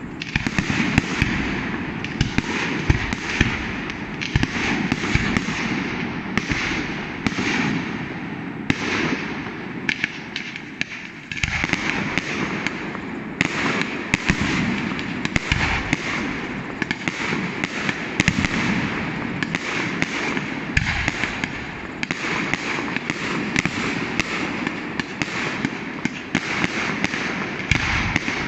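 A large fireworks display of mortar-fired aerial shells, giving a dense run of bangs and crackling. It thins out briefly about ten seconds in, then picks up again sharply.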